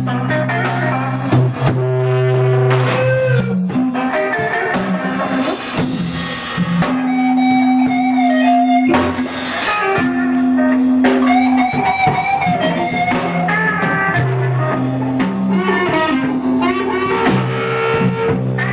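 Blues-rock band playing an instrumental passage: guitar lines with held and bending notes over bass and a drum kit.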